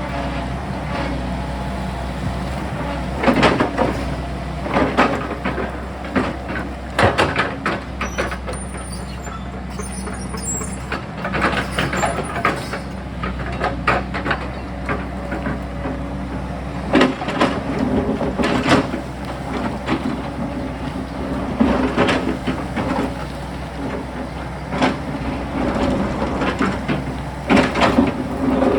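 Sany excavator's diesel engine running steadily, with repeated knocks and scrapes as the bucket digs into rock and soil on the hillside.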